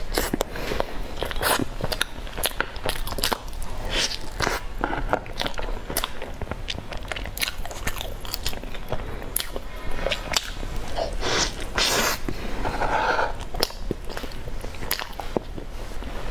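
Close-miked mouth sounds of biting and chewing a layered sandwich topped with cheese sauce and meat floss. There is a dense, irregular run of crisp crunchy clicks, with wet smacking now and then.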